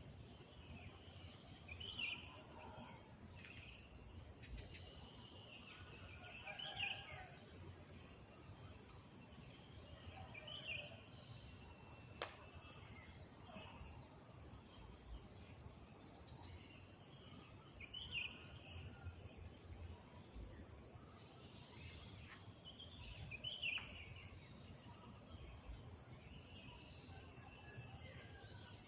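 Rural morning ambience: birds chirping and calling on and off, in short scattered phrases, over a steady high-pitched drone of insects such as crickets.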